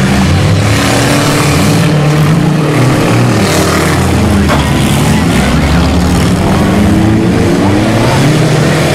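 Autocross cars' engines running hard under racing throttle, their pitch rising and falling as they accelerate and ease off.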